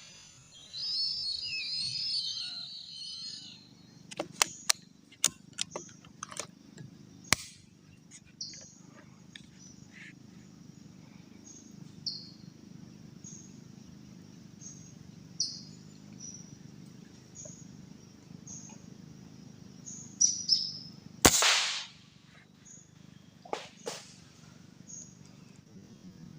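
A single sharp rifle shot about three-quarters of the way through, the loudest sound here, with a couple of smaller knocks soon after. Short high chirps repeat about once a second over a steady low rumble, and a few sharp clicks come early on.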